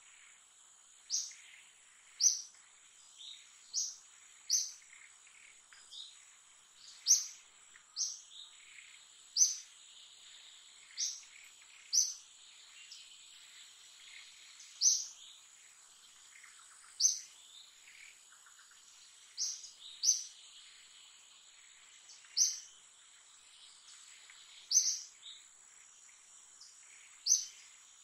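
A bird giving short, high, sharp chirps, repeated irregularly every one to two seconds, over a steady high-pitched insect drone.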